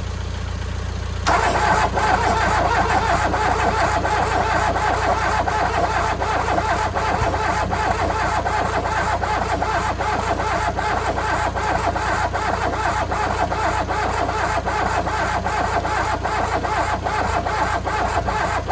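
VW Rabbit pickup's 1.6 diesel engine cranking on its starter without catching, starting about a second in and running on steadily. The starter is too slow, which the owner puts down to a poor ground connection.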